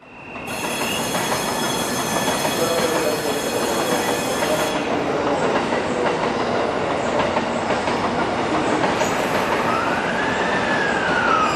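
Train running at a station. The sound fades in at the start and then stays steady, with a tone that rises and then falls near the end.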